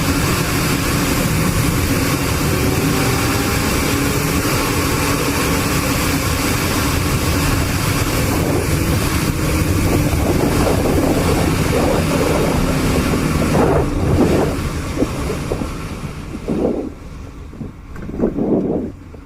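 Steady road and wind noise from a moving vehicle. The noise drops away about three-quarters of the way through as the vehicle slows, leaving a few short louder sounds near the end.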